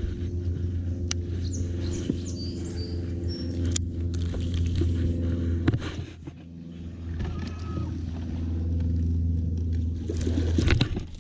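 Boat's electric trolling motor humming steadily, easing off briefly about six seconds in, with scattered clicks from the fishing tackle.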